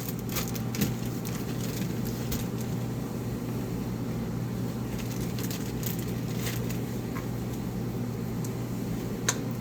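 A steady low hum under a light haze of noise, with a few light clicks and taps from food containers being handled, mostly near the start and once near the end.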